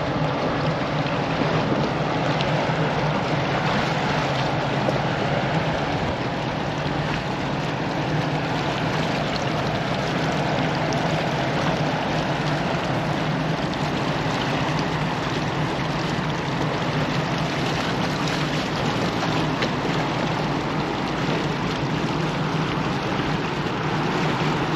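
Steady low drone of boat engines mixed with rushing water and wind noise.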